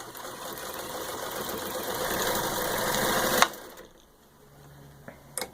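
Singer 66-16 sewing machine with its rewired motor stitching through six layers of denim, speeding up steadily under the foot pedal and getting louder, then stopping suddenly about three and a half seconds in with a knock. Two light clicks near the end.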